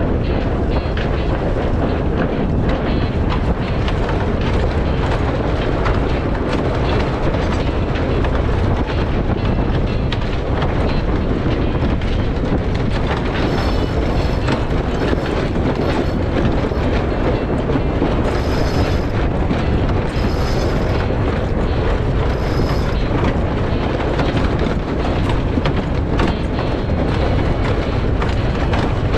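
Strong wind buffeting the microphone, with water rushing past the hull of a sailboat under sail: a loud, steady rumble.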